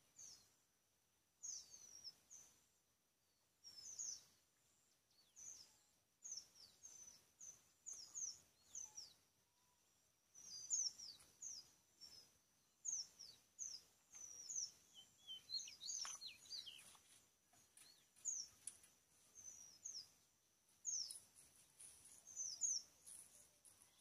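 Faint chirping of small birds: many short, high chirps that sweep downward, scattered irregularly and coming thicker in the second half, over a faint steady high tone.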